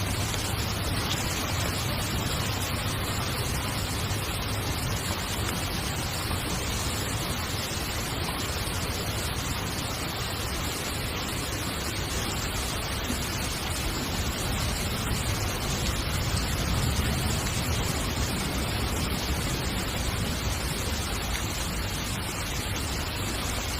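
Heavy rain falling on a tent, a steady, unbroken rush of noise that holds the same level throughout.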